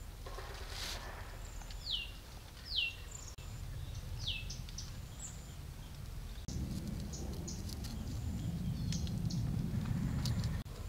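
Birds calling: three quick chirps sliding downward in pitch between about two and four and a half seconds in, with other short high chirps scattered through. A brief rustle about a second in, and a low rumble that comes in about halfway and cuts off just before the end.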